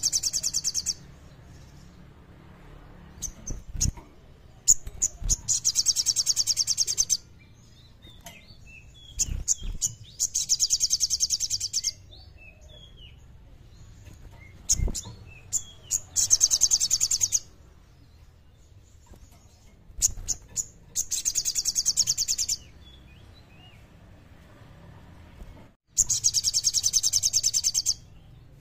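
Sogon songbird singing in repeated bouts of fast, high, rattling trills, each two to three seconds long and coming about every five seconds. Short chirps and a few soft thumps fall between the bouts.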